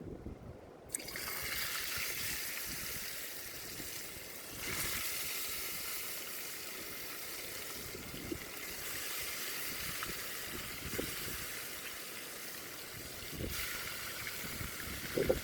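Fish frying in hot oil: a steady sizzle with faint crackles, starting abruptly about a second in.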